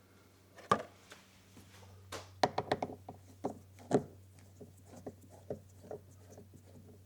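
Hands handling small hardware and tools during a lock installation: an irregular string of clicks and knocks, the sharpest about a second in and a quick cluster in the middle.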